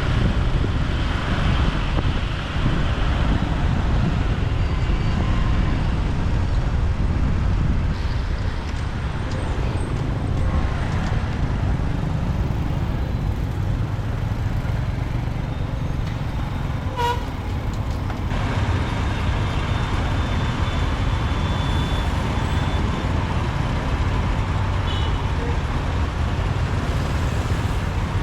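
Steady low rumble of a motorbike ride through city traffic, with a short horn toot about two-thirds of the way through.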